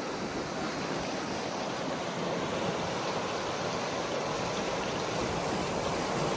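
Rain-fed desert river rushing steadily over rapids through a narrow slot canyon, a continuous even rush of water.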